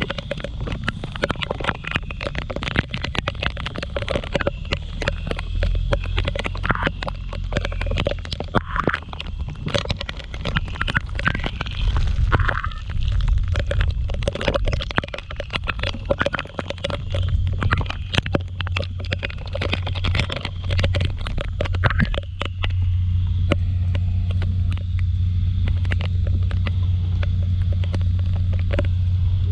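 Raindrops ticking and crackling densely on the microphone over the low, steady hum of a Kymco Like 125 scooter on the move. The crackling stops about three-quarters of the way through, leaving the even low hum of the ride.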